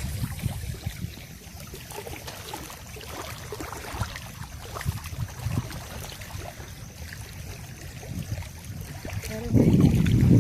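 Outdoor waterside ambience: water running, with wind rumbling on the microphone and a stronger gust near the end.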